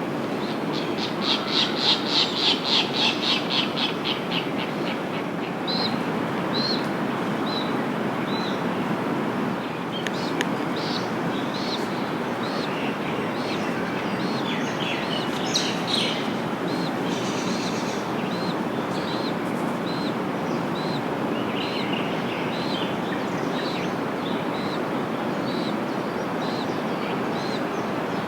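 Adult white tern (Manu-o-Kū) calling: a loud rapid chattering run of notes in the first few seconds, then a long series of short, evenly spaced high notes at about one and a half a second. A steady low rumble of traffic lies underneath.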